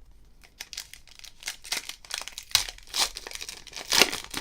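A football trading-card pack wrapper being crinkled and torn open by hand, an irregular crackling with a few louder crackles, the loudest near the end.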